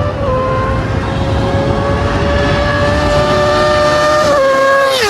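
A car engine held at high revs, giving a steady high-pitched note over a rumble of road and tyre noise. Its pitch falls sharply about four seconds in and again near the end.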